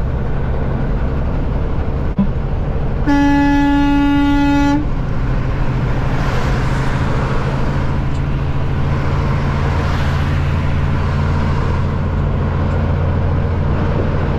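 Semi-truck's diesel engine droning steadily inside the cab, with one horn blast on a single pitch, lasting about a second and a half, about three seconds in.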